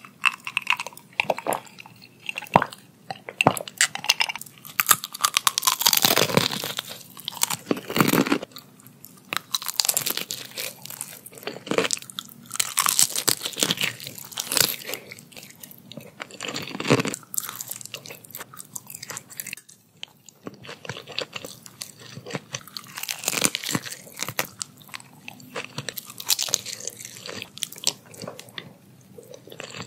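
Close-up crunching and chewing of crispy deep-fried fish and rice: irregular crackly bites and mouthfuls being chewed, on and off throughout.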